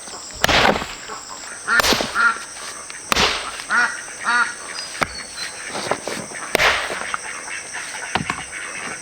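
Short animal calls in two quick series, about two and four seconds in, among several sharp knocks or thuds.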